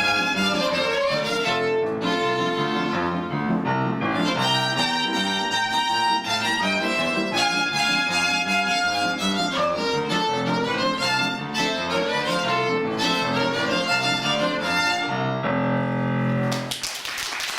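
A violin duet with piano accompaniment playing a lively piece, closing on a held low chord near the end.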